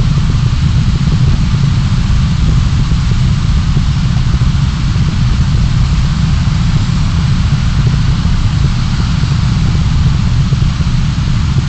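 Steady low rumble of a car, engine and running noise, picked up inside the cabin by a dashcam microphone, with a fainter hiss over it.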